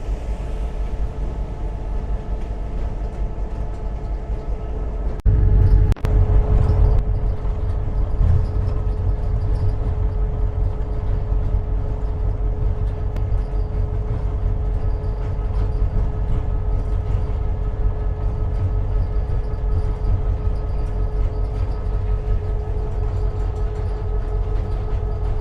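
EMD GP38-2 diesel-electric locomotive running, heard from inside its cab: a steady low rumble of the 16-cylinder engine and wheels, with a constant whine. About five seconds in, a louder rumbling burst lasts under two seconds.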